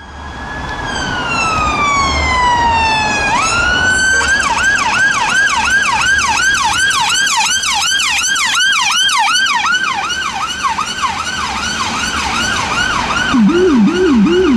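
Siren of an Audi Q7 air-ambulance trauma car: a slow wail falling in pitch, then a quick rise into a fast yelp of about two and a half sweeps a second. Near the end the Rumbler low-frequency siren cuts in, a much deeper yelp under the main tone.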